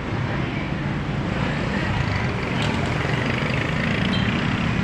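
An engine running steadily, with a low drone and outdoor traffic-like noise.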